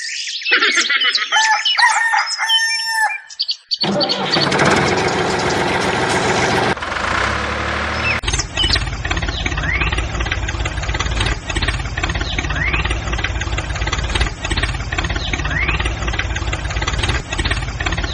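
A rooster crows over the first few seconds. About four seconds in, an engine starts, then runs steadily for the rest.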